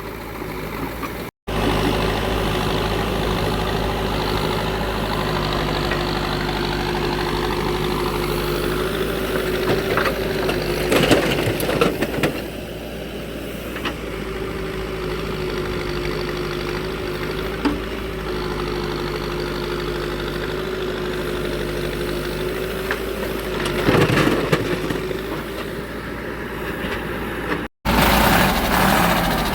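Diesel engine of heavy machinery running steadily, with two short louder clattering bursts, one about eleven seconds in and one about twenty-four seconds in. The sound cuts out abruptly for an instant twice, near the start and near the end.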